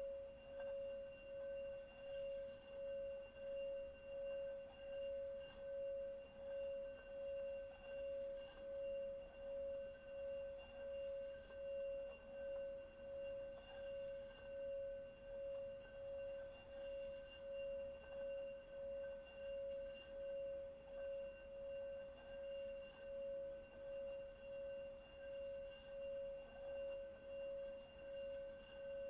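A singing bowl held at a constant ringing tone, its pitch steady with fainter higher overtones, the sound swelling and fading in an even wavering about three times every two seconds.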